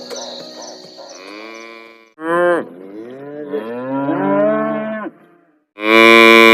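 Cattle mooing: a short call about two seconds in, a longer wavering moo after it, then after a brief pause a loud, long moo begins near the end.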